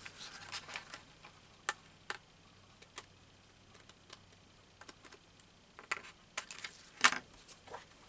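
Scissors snipping paper: a handful of short, crisp clicks at irregular intervals, the sharpest about seven seconds in.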